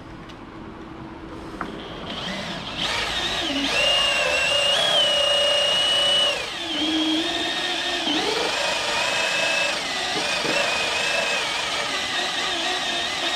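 Drill spinning a rubber decal-eraser wheel against old adhesive strips on a truck's paint. The motor whine starts about three seconds in and shifts up and down in pitch a few times as the wheel works.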